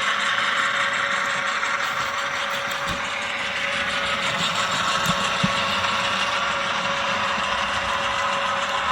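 HO scale model train running on the layout: a steady mechanical hum and whir with a constant tone and a few faint knocks.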